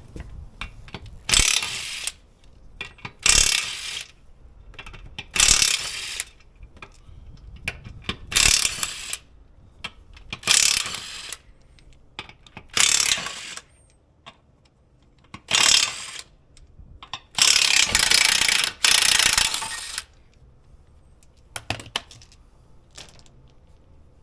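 Hand ratchet wrench clicking in short bursts about every two seconds, with a longer run of clicking near the end, as nuts are run down on a tractor wheel spacer.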